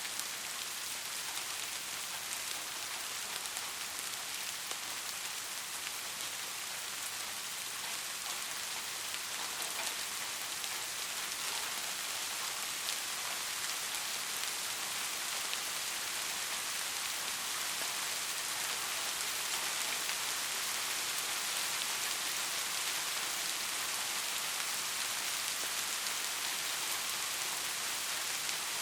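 Steady heavy rain falling and pattering on a roof, with many fine drop hits.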